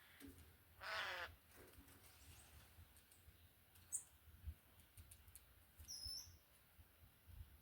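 Wild birds calling: one short, loud call about a second in, then two brief high-pitched chirps, near four and six seconds, against a quiet background.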